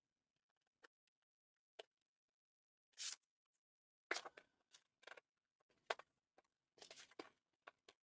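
Faint, scattered paper rustles and small clicks of card and paper being handled while a split pin is pushed through to fasten the folded pieces.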